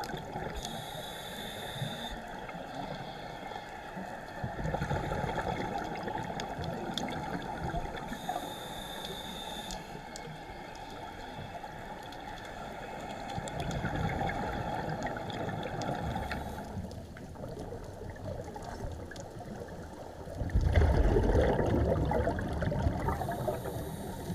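Scuba diver breathing through a regulator underwater: short hissing inhalations alternate with longer gurgling rushes of exhaled bubbles, in about three slow breathing cycles, the last bubble rush the loudest.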